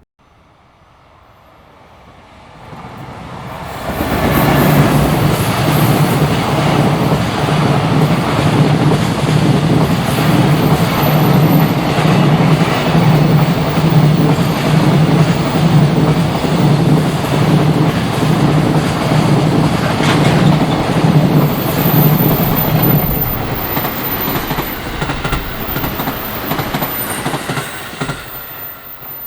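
A freight train of container wagons passing close by: a steady rumble of wheels on rail. It builds up about three seconds in and fades away near the end. A thin high whine rides on top in its latter part.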